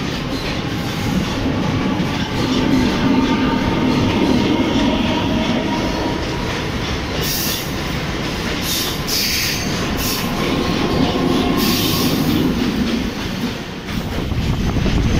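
Chennai MRTS suburban electric multiple-unit train running along a station platform, its wheels clattering on the rails, with several bursts of high squealing partway through.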